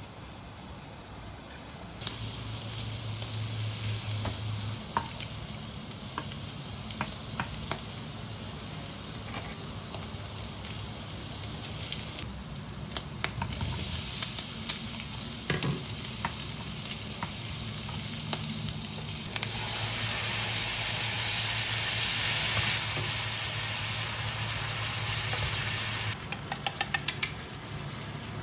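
Prawns and green peppers sizzling in a hot frying pan, with scattered taps of a utensil against the pan. The sizzle starts about two seconds in and is loudest past the middle. Near the end it drops away and a quick run of light clinks follows.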